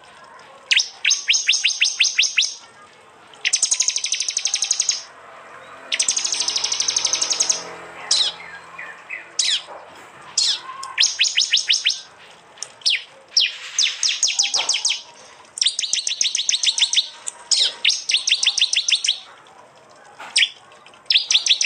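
Prinia (prenjak) song: loud, high-pitched phrases of rapid repeated notes, about ten a second, each burst lasting one to two seconds, with short gaps and single sharp notes in between. These are the hard 'tembakan' bursts used as training calls for songbirds.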